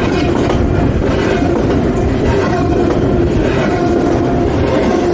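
CSX freight train rolling past, a steady loud rumble of wheels and railcars on the track.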